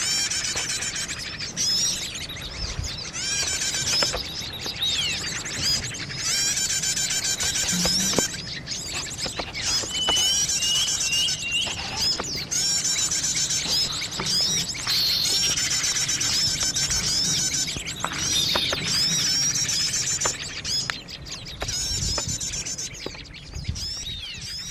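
Several wild birds chirping and trilling at once: a busy chorus of quick, high calls, with fast trills and short sliding notes.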